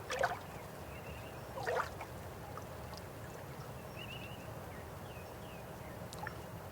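River water flowing steadily, with two louder splashes or gurgles, one just after the start and one about a second and a half later.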